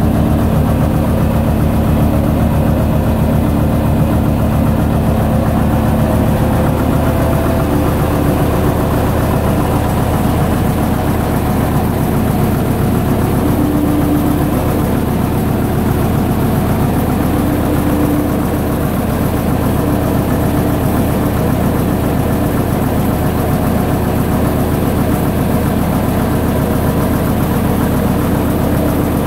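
Gardner LW diesel engine driving a generator, running steadily at constant speed with an even, rapid firing beat.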